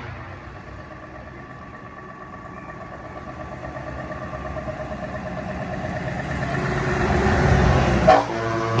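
Truck engine running, growing steadily louder as the truck approaches, with a short horn blast near the end.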